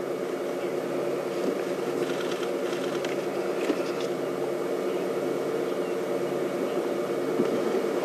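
A vehicle engine idling steadily with an even hum, with a few faint high ticks about two to four seconds in.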